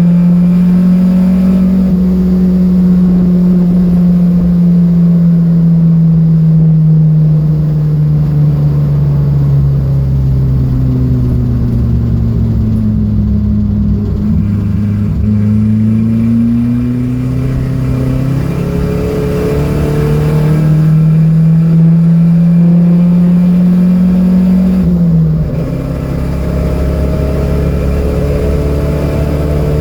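Datsun B210's four-cylinder engine running hard and loud. Its pitch sinks slowly over the first half, then climbs again, and drops suddenly about 25 seconds in as it shifts up a gear.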